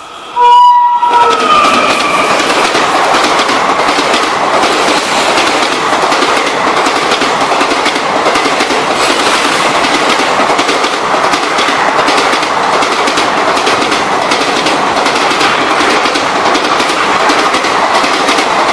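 Short blast of an electric locomotive's horn near the start, then an express passenger train passing close by at speed: the loud, steady rush of coaches, with the clickety-clack of wheels over rail joints.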